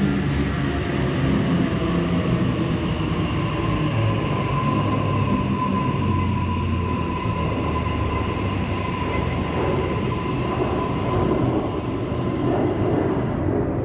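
Sydney Trains A-set (Waratah) electric suburban train at the platform, running with a steady whine through the middle and a continuous rumble of rail and equipment noise.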